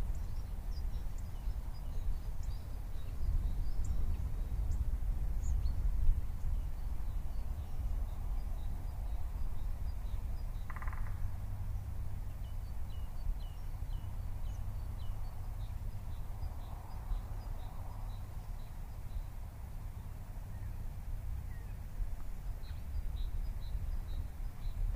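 Forest ambience: a steady low rumble, with faint, short, high chirping calls repeating throughout and a brief louder call about eleven seconds in.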